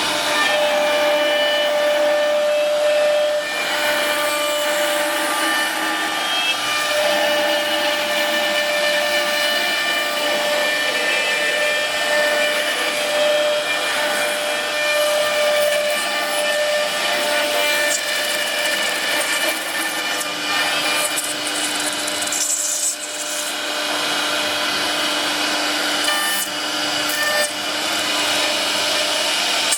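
CNC router spindle cutting wood: a steady high whine made of several held tones over a coarse cutting noise. The tones shift partway through, with a brief drop in level about two-thirds of the way in.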